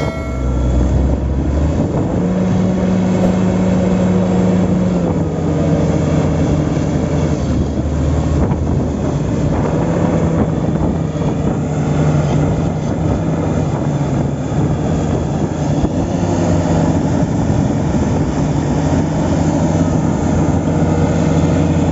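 Heavy diesel engines of earthmoving machines running hard under load, a steady drone whose pitch rises for a few seconds near the start and then settles back. They are straining to pull a Komatsu D65P bulldozer that is bogged deep in mud.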